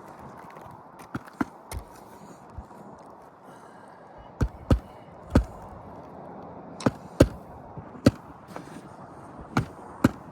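Hammer tapping a roof shingle back into place: about a dozen sharp blows at irregular intervals, the loudest in the second half.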